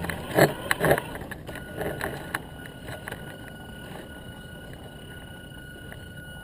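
Radio-controlled Tamiya TA02T truck, heard from a camera mounted on it, rattling and clattering over rough ground for about the first second and a half, then settling to a quieter steady hum with a faint high steady tone and a few light clicks.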